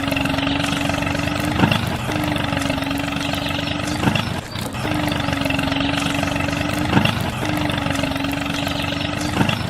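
Small motor of a miniature DIY tractor model running steadily, with a sharp click repeating about every two and a half seconds.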